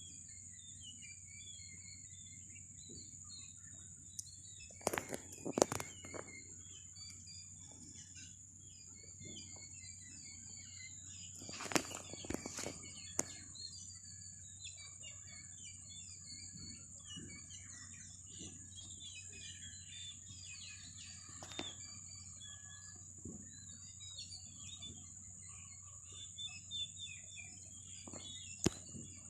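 Riverside ambience: many small birds chirping over a steady high-pitched insect drone, with a low rumble beneath. A few sharp knocks come in clusters about 5 and 12 seconds in, with single ones near 21 s and just before the end.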